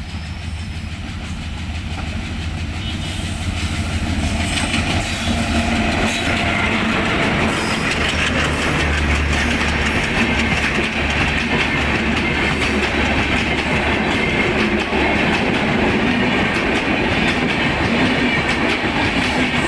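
Passenger train running on the track, with a steady rush and wheels clicking over rail joints. It grows louder over the first few seconds, then holds steady.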